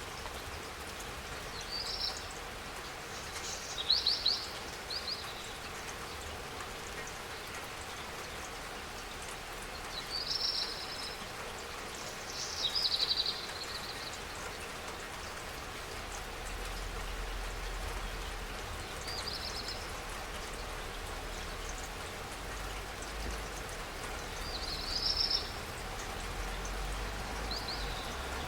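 Steady spring rain falling, with a bird giving short, high chirps every few seconds; the chirps are the loudest sounds.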